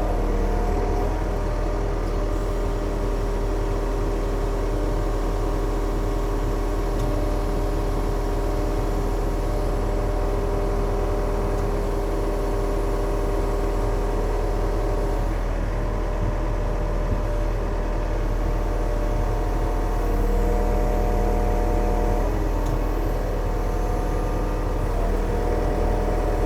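Diesel engine of a Yanmar machine running steadily, with steady tones over it that change pitch about halfway through and again near the end as the machine is worked.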